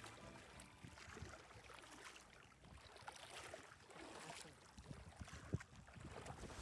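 Near silence: faint background noise with a few soft ticks.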